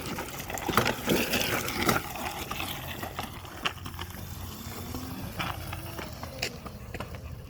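Electric Razor dirt bike rolling over rocky, soft dirt: tyres crunching and scraping on stones and loose ground, loudest in the first couple of seconds, with a faint motor whine underneath.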